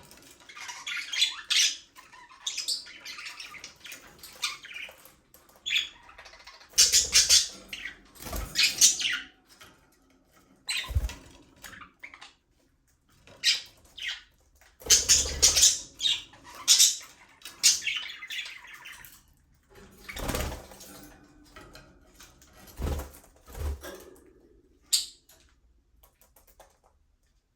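A flock of budgerigars chirping and chattering in bursts with short pauses, with a few dull thumps mixed in; the chirping thins out over the last few seconds.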